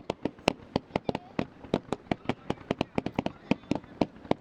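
Fireworks display: a rapid, irregular string of sharp bangs from fireworks bursting, about five or six a second.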